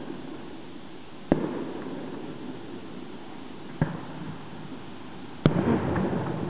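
Fireworks going off: three sharp bangs about two and a half seconds apart, each trailing off into a rumbling echo. The last, near the end, is the loudest and rumbles on longest.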